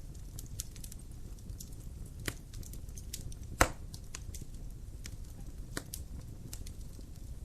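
Wood fire in a fireplace crackling: scattered sharp pops and snaps over a low steady rumble, with one loud pop about three and a half seconds in.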